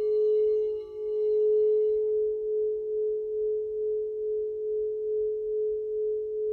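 Crystal singing bowl ringing with one steady, pure tone that pulses slowly in loudness. Its fainter higher overtones die away about two seconds in, leaving the single tone.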